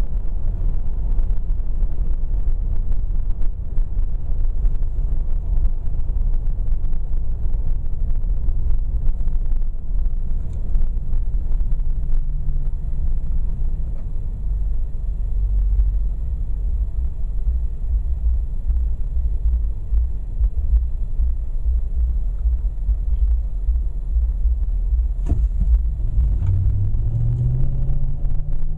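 Low, steady exhaust and engine rumble of a car with a Flo-Pro muffler, heard inside the closed cabin while cruising in overdrive, with little drone. There is a single sharp click about three seconds before the end, and the engine note rises over the last few seconds.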